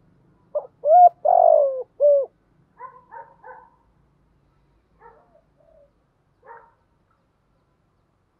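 Spotted dove cooing: a loud phrase of four notes, the third one long, followed by several softer, shorter coos.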